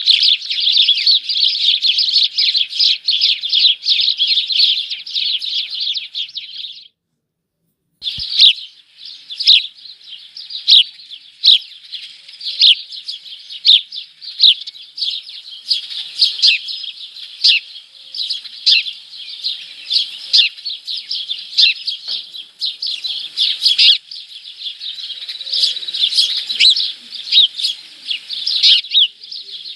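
Small songbirds chirping, at first in a dense, rapid stream; the sound drops out completely for about a second some seven seconds in, then returns as separate sharp chirps, several a second, growing denser again near the end.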